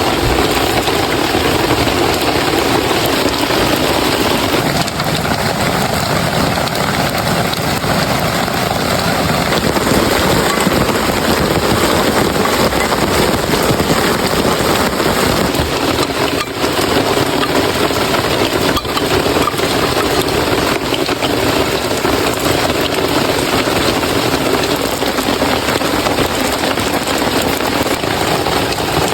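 Heavy rain falling steadily in a forest, a dense even hiss.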